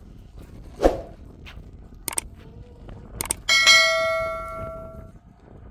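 A few knocks and clicks, then one bell-like metallic ring, struck once and dying away over about a second and a half.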